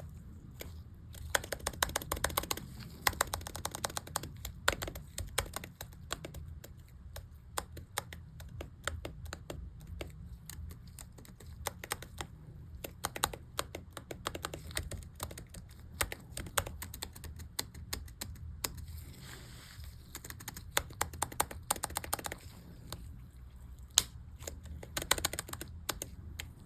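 Irregular, rapid plastic clicking of a MacBook keycap being pressed and worked onto its hooks on the keyboard, over a low steady hum.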